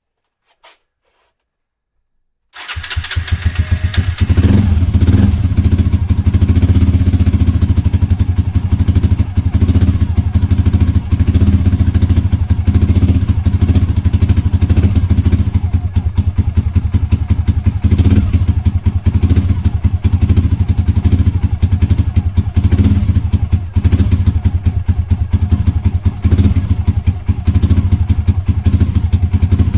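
Honda GB250 single-cylinder four-stroke engine catching about two and a half seconds in and then running steadily with fast, even firing pulses, on its first start after standing unused for a long time. A faint click comes just before, under a second in.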